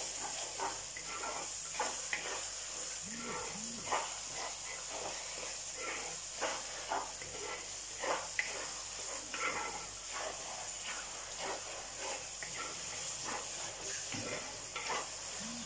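Tomatoes and onions sizzling in oil in a clay pot, stirred with a spatula whose repeated strokes scrape through the mixture about once or twice a second.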